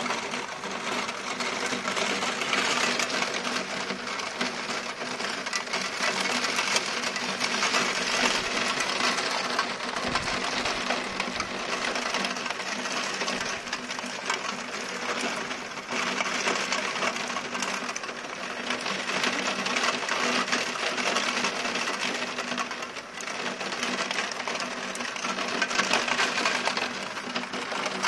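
Heavy rain pouring down in a steady, dense hiss, easing briefly late on.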